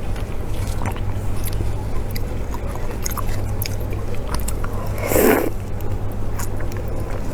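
Close-miked eating: chewing and biting with small wet clicks, and one louder burst of chewing noise about five seconds in, over a steady low hum.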